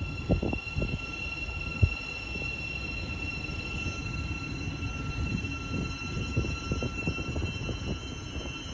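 Train running at a station platform: a steady low rumble with irregular knocks, one sharp knock about two seconds in, under several steady high-pitched whining tones.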